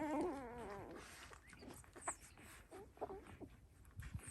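Newborn Dalmatian puppies squeaking: a wavering squeal of just under a second at the start, then a scatter of short, faint squeaks.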